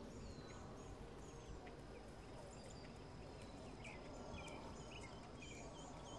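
Faint chorus of several birds chirping and calling, many short sliding notes overlapping, over a steady low rumble.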